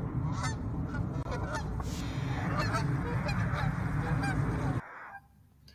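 A flock of cranes calling, many short honking calls overlapping into a dense chorus that cuts off suddenly near the end.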